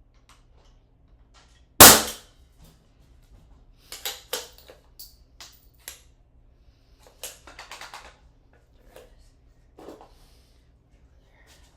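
Ramset powder-actuated nail gun firing once: a single loud, sharp bang about two seconds in. It is followed by a scatter of lighter clicks and knocks.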